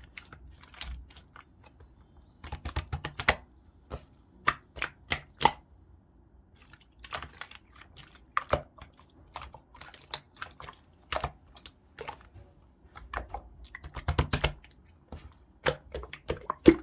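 Clear slime being played with, making irregular clusters of sharp clicks and small pops with short pauses between them.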